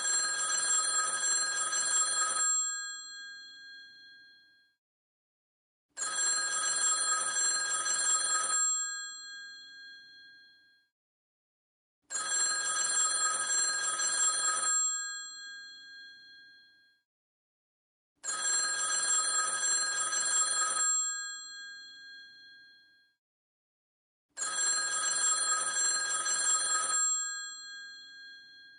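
Old telephone bell ringing in a repeating cadence: five rings, each about two and a half seconds long, with the bell ringing on as it dies away, one ring about every six seconds.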